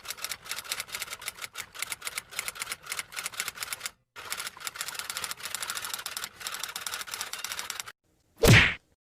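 Typewriter sound effect: two runs of rapid keystrokes with a short break about four seconds in, then a single loud short swish near the end.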